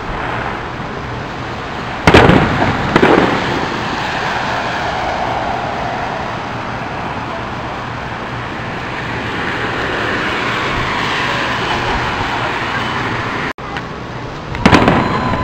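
Aerial fireworks shells bursting: two loud bangs about two and three seconds in and another near the end, with a steady rushing noise between them.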